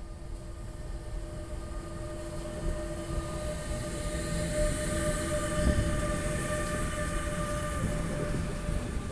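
Two electric locomotives passing slowly at the head of a car-carrier freight train: a steady electric whine of several tones over low rumbling from the wheels, growing louder as the locomotives go by.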